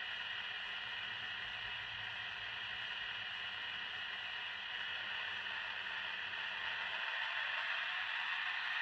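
Small electric motor and gears of an N-scale model V160 diesel locomotive running along the track, a steady whirring hiss that grows a little louder near the end.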